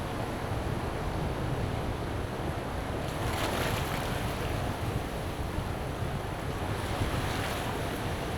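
Sea surf washing onto a beach in strong wind, with wind buffeting the microphone as a steady low rumble. Two waves break and hiss up the shore, one about three seconds in and another near the end.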